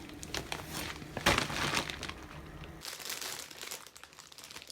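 Crinkling and rustling as a waist bag is handled, denser in the first two seconds, then fainter and more scattered.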